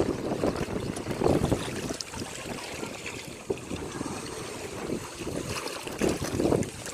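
Ocean waves washing on the shore, swelling about a second in and again near the end.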